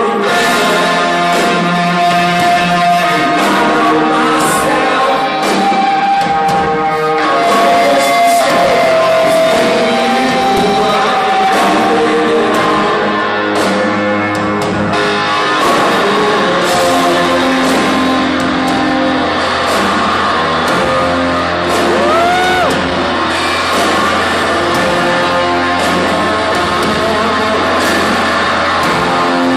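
A rock band playing live in a large hall: singing over electric guitars and drums, with long held notes and a steady low bass note from about halfway through.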